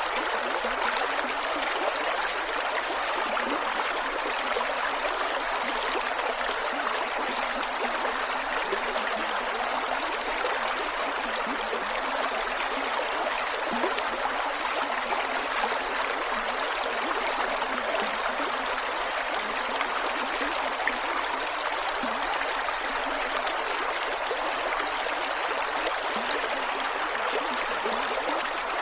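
Shallow creek water flowing over rocks, a steady rush with small gurgles and splashes.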